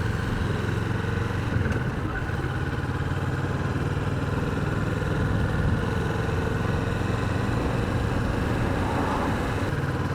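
Kawasaki Vulcan 650's parallel-twin engine running steadily under the rider on the move, a low, even exhaust note.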